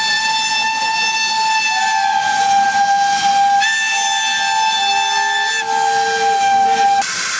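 Steam locomotive whistles blowing: a long, loud, high whistle tone that dips slightly in pitch about two seconds in, joined by a second, lower whistle about five seconds in. Both cut off suddenly about seven seconds in, leaving a hiss of steam.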